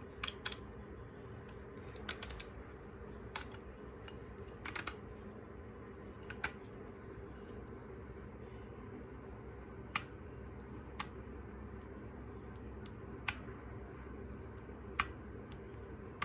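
Light, sharp clicks and taps of small hard parts being handled, about a dozen spread irregularly, some in quick pairs, over a steady low hum.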